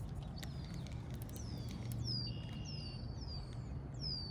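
Songbirds calling: a run of short, high, falling chirps repeating about every half second, with one brief steady whistled note partway through. A few sharp clicks come near the start, over a steady low rumble.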